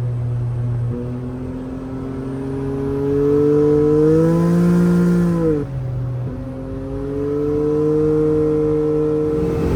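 Can-Am Maverick X3 Turbo RR's turbocharged three-cylinder engine revving through an RPM slip-on exhaust with its dump valve open. The pitch climbs steadily and holds, drops back sharply about halfway through, then climbs again near the end.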